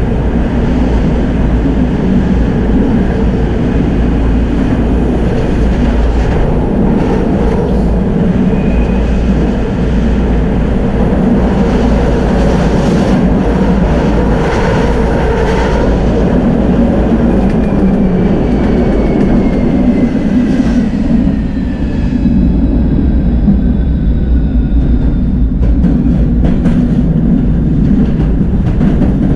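Tram running along its track with a steady, loud rolling rumble. In the second half a whine glides downward, and near the end there is a quick run of clicks and knocks from the wheels over the rails.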